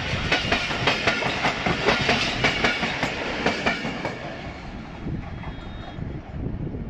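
Pakistan Railways passenger coaches rolling past at speed, their wheels clicking over the rail joints in a rapid clickety-clack. The clicking fades as the last coach goes by about four seconds in and the train draws away.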